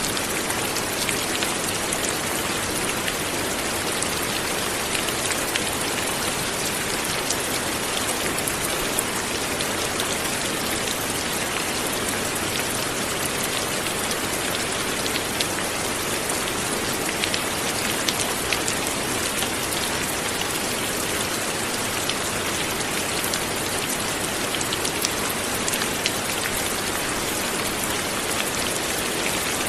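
Steady light rain falling, an even patter with scattered individual drops ticking on a surface.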